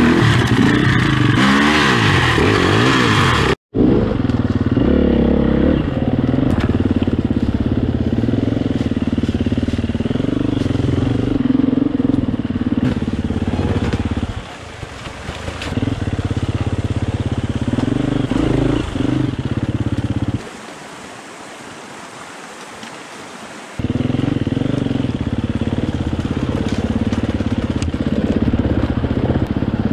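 KTM 250 enduro motorcycle engine running in low gear, revving up and down as the bike picks its way through a rocky creek bed. The engine falls to a much lower level for about three seconds around two-thirds of the way through.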